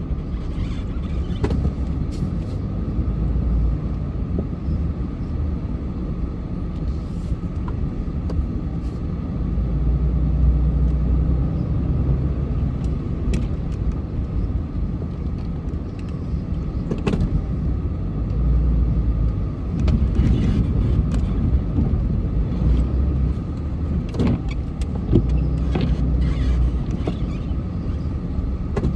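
A vehicle's engine running, a steady low rumble that swells and eases several times, with a few short sharp knocks over it.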